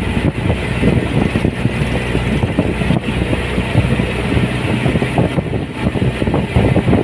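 Boat engine running steadily as the boat cruises across the lake.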